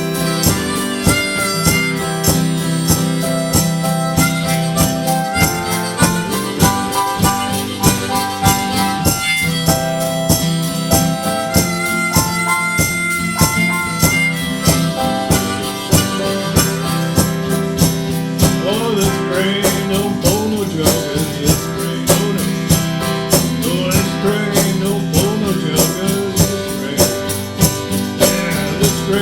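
Instrumental break of a train song: harmonica playing over a steady, driving strummed rhythm, with wavering bent notes in the second half.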